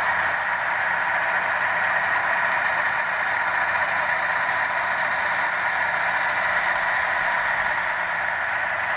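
Sound-equipped HO scale GE ET44AC model locomotives with ESU LokSound decoders playing a diesel prime mover sound through their onboard speakers as they roll by, steady and unchanging.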